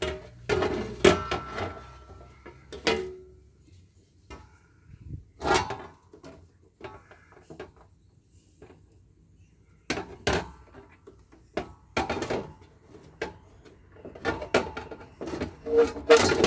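Irregular metal clanks and rattles, some ringing briefly, as the sheet-metal top cover of a solar inverter is pried and worked off its casing.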